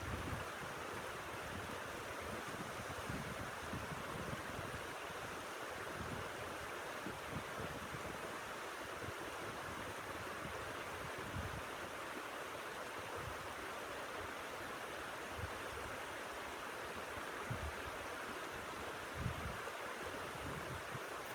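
Steady rushing storm wind, with irregular low gusts buffeting the microphone.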